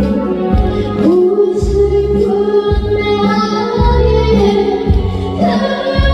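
A young girl singing a song over a backing track with a steady beat, holding long notes with vibrato.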